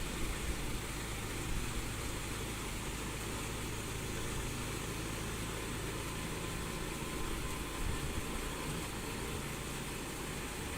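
Diesel engine of heavy earthmoving machinery running steadily at an even speed.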